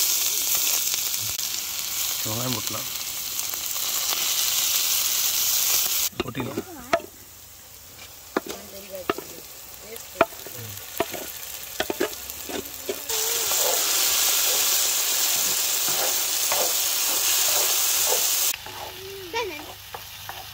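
Hot oil sizzling loudly on a flat iron griddle as chopped ingredients hit it. About six seconds in, the hiss drops away to a series of sharp metal knocks and scrapes from a spatula and bowl on the pan. A loud sizzle returns for several seconds before it quietens again near the end.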